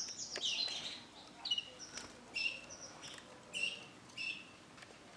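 Female Isabel canary giving short separate chirping calls, about one every half second to second.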